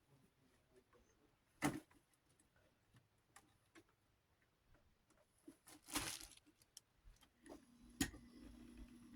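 Faint handling of a small desk fan's parts: a couple of sharp knocks and a short scraping rustle, with a faint steady low hum coming in near the end.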